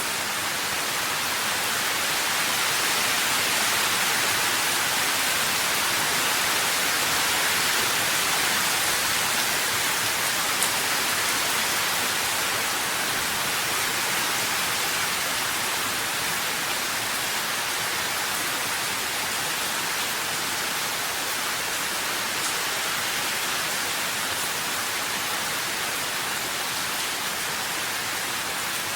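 Steady rainfall, an even hiss of rain with no distinct drops or thunder.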